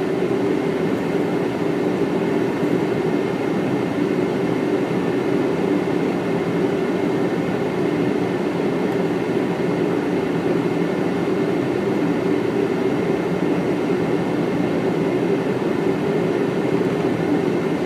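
Steady flight-deck noise of a Boeing 777 on final approach: an even, unbroken rush of airflow and engine noise, with no change through the stretch.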